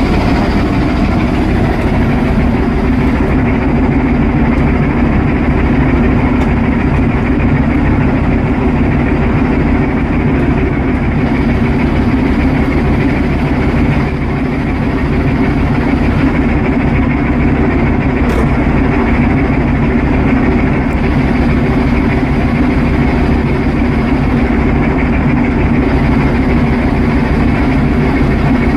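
A cargo ship's main diesel engine running steadily under way: a loud, constant, deep drone with no change in pace.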